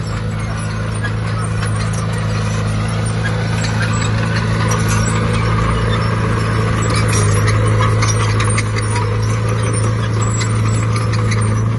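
Heavy diesel engine of earth-moving machinery, a bulldozer or dump truck, running steadily at a constant low pitch, with light metallic rattling over it.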